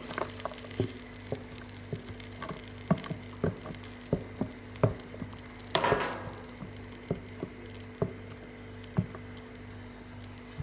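Light, irregular knocks and clicks of a utensil against a metal sufuria of githeri cooking on a jiko, with one louder scrape about six seconds in.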